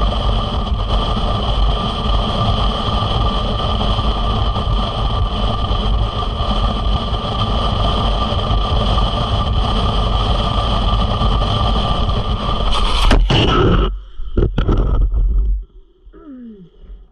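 Harley-Davidson motorcycle running at speed with steady engine and road noise. About thirteen seconds in comes a sudden clatter of several impacts as the bike crashes under hard front braking, and the noise cuts off a couple of seconds later.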